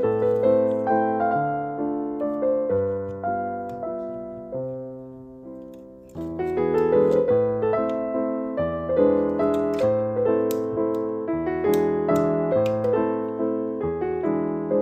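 Background piano music, a melody with chords. It fades to its quietest about five seconds in, then resumes at full level.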